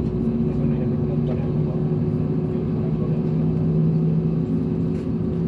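Steady hum of an Airbus A320neo's engines heard from inside the passenger cabin, with low drone tones; the main tone steps slightly higher a few seconds in.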